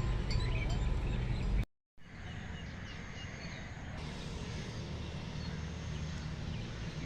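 Outdoor ambience: a low steady rumble with faint, short chirps, likely birds, scattered over it. It cuts out briefly a little under two seconds in, then resumes.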